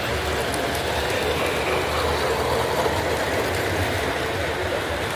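Model trains running on a display layout, a steady rumble of motors and wheels on track, with the hubbub of a crowded exhibition hall behind.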